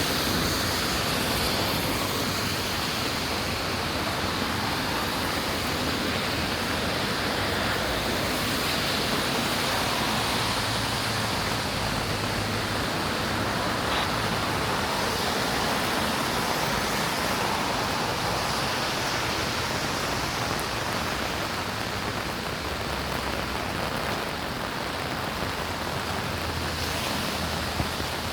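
Steady rain falling, a constant even hiss with no letup.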